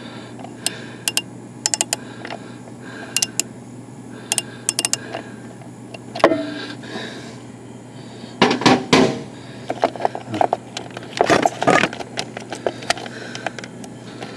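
Small metal and plastic parts clicking and clinking as they are handled, while the outboard's starter relay and its wiring are worked on. Short bursts of clicks come first, then louder clattering rattles about halfway through and again a few seconds later, over a steady low hum.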